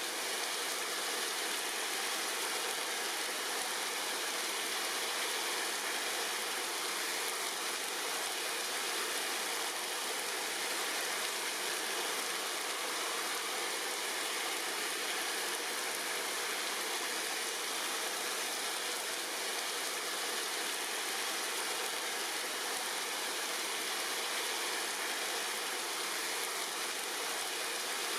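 Steady rain falling on tree leaves, an even hiss with no single drops standing out.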